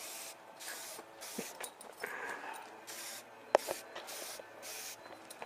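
Aerosol spray paint can hissing in a string of short squirts of about half a second each, with a sharp click about halfway through.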